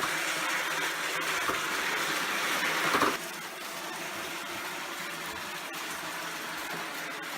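ILIFE A4 robot vacuum running, a steady whir of its suction motor and brushes. It is louder for the first three seconds, then drops suddenly to a quieter steady hum.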